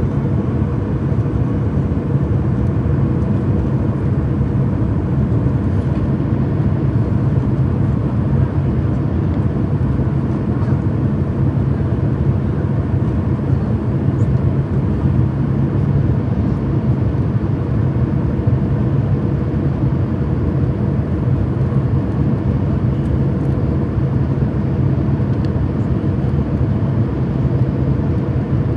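Steady low rumble of a Boeing 737 MAX 8 jet airliner, even throughout, with a faint constant hum above it.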